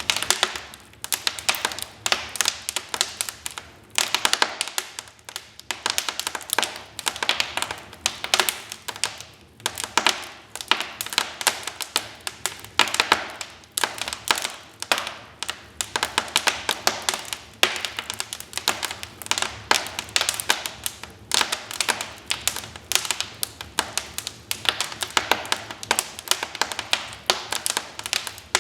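Wood fire crackling, with dense, irregular snaps and pops from the burning logs.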